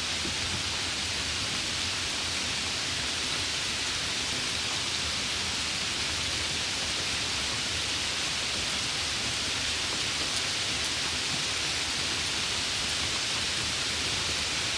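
Steady summer rain falling, a constant even hiss without separate drops standing out.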